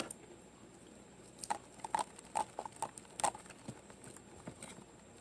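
Eating sounds: a run of about nine short, wet mouth clicks of chewing and lip-smacking, starting about a second and a half in and lasting under two seconds.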